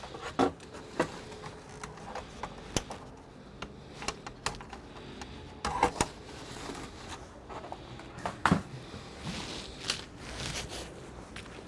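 Irregular clicks and knocks of tools and small computer parts being handled during disassembly, with louder knocks about six and eight and a half seconds in.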